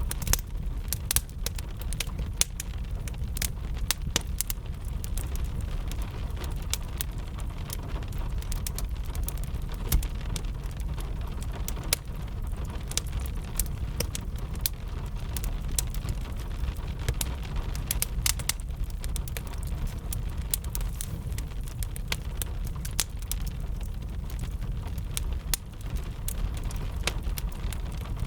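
Wood fire crackling with frequent irregular sharp pops, over a steady low rush of rain.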